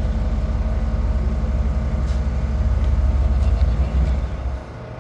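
A vehicle engine running with a deep low rumble. It grows a little louder about three to four seconds in, then falls away sharply near the end.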